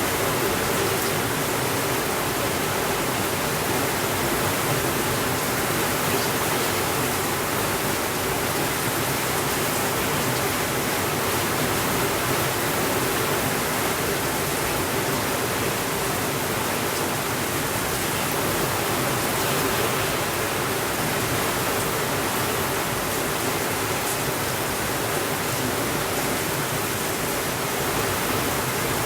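Steady rainfall, an even wash of rain noise with no breaks.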